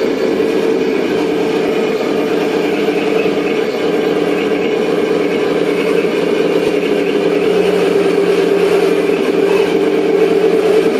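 Simulated tank engine sound from the model's Tamiya DMD sound unit played through its small onboard speaker, running steadily with a slight rise near the end.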